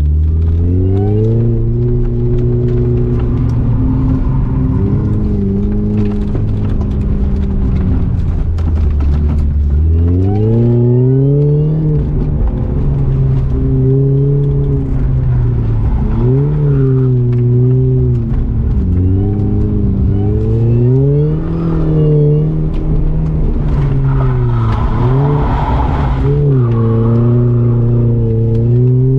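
Car engine under hard driving, its pitch climbing and dropping every few seconds as the driver accelerates, lifts off and accelerates again through a tight autotest course. It stays low for a while before climbing about ten seconds in.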